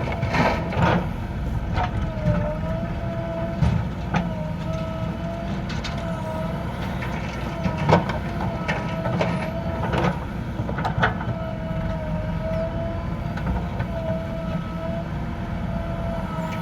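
Diesel engine of heavy farm or construction machinery running steadily, with a wavering high whine coming and going over it and sharp clanks every few seconds.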